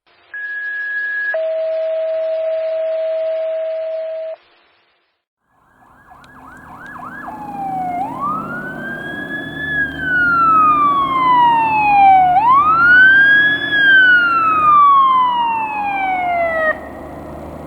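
A steady electronic tone that steps down once in pitch and lasts about four seconds, then silence. Then a fire engine's rumble builds with a few quick siren blips, and a Federal Q2B mechanical siren winds up and coasts down slowly twice before cutting off suddenly near the end.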